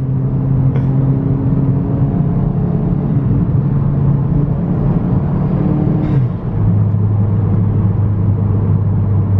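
Car engine and road noise from inside the cabin during a hard run, the engine holding a steady drone whose pitch drops to a lower steady note about six seconds in.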